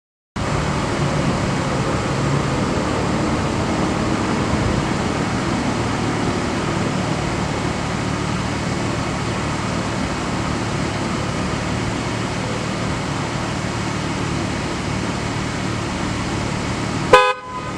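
1999 Plymouth Prowler's 3.5-litre 24-valve V6 running steadily, starting abruptly about half a second in. Near the end comes one short, loud pitched blip, then a sudden drop in level.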